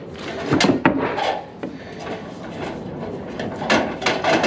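Scattered sharp knocks and clatter of wood being worked in a deck demolition: a few strikes in the first second and a half, then more near the end.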